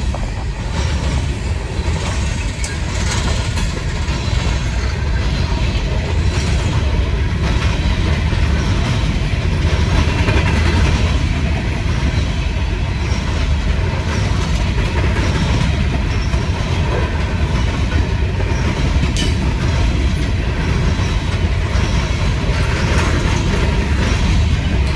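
Norfolk Southern coal train's freight cars rolling past, a steady heavy rumble with steel wheels clicking over the rail joints.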